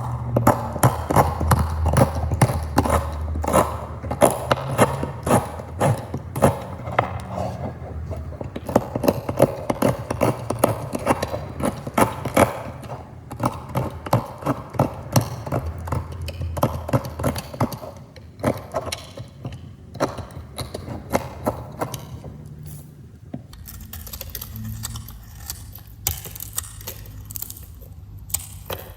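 Knife cutting through crunchy soap: a rapid run of crisp crackles and crunches, thinning out in the last third.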